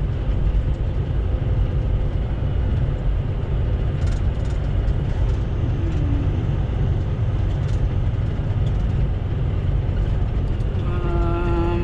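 Steady low rumble of a semi truck's diesel engine and road noise heard from inside the cab while driving.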